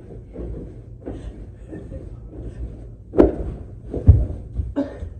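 Two sharp knocks or thumps about a second apart, the second heavier and deeper, over faint low voices.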